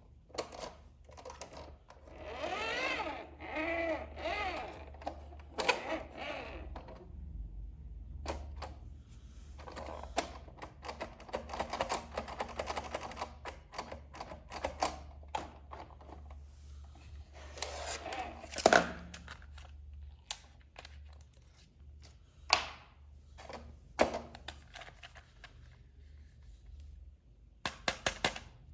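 Rapid clicking and tapping of hard plastic as a toy RC car and its packaging are handled, with a warbling, wavering tone for the first few seconds and one sharp knock about two-thirds of the way through.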